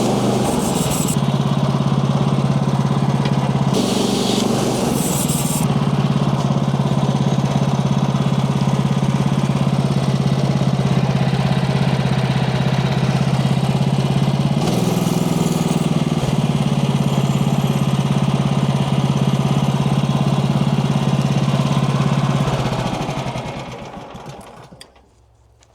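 Portable band sawmill's Kohler gasoline engine running steadily at speed, with a few short bursts of higher hiss. The engine winds down and stops about 23 seconds in.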